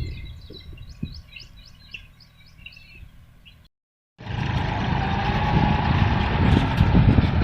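Farmtrac Atom 26 mini tractor engine running with a low rumble while birds give a quick series of chirps. After a sudden cut, the engine comes back much louder and noisier.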